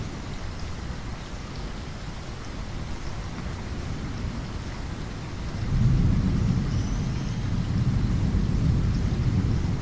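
Steady rain falling, with a low rumble of thunder that swells up about halfway through.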